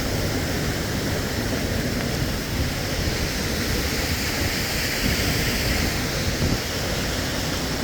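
Creek water rushing steadily, a constant even roar with no breaks.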